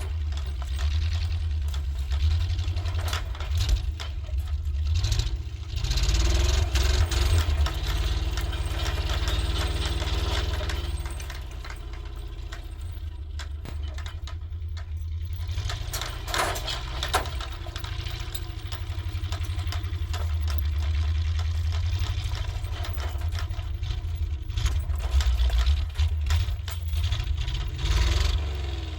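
Old International 1200 truck's engine running while the truck drives in snow, a deep steady rumble whose pitch climbs and then sinks again about a third of the way in. Sharp rattles and knocks come through over it.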